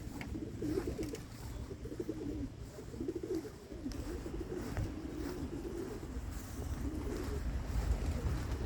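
Domestic flight pigeons cooing, a steady warbling coo, under a low rumble of wind on the microphone.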